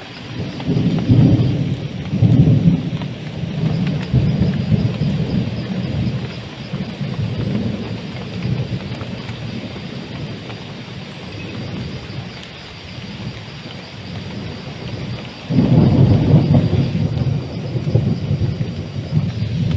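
Heavy jungle rain falling steadily, with low rolls of thunder: two rumbles in the first few seconds and a loud one that starts suddenly about fifteen seconds in.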